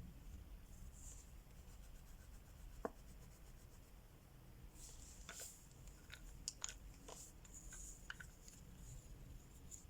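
Wax crayon faintly scratching across paper in short strokes, with a few small clicks and taps: one about three seconds in and several more in the second half.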